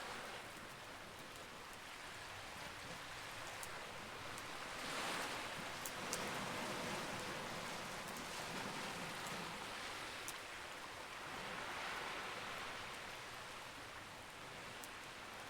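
Wood campfire crackling with a few scattered sharp pops over a steady rushing hiss that swells up twice, about five seconds in and again around twelve seconds.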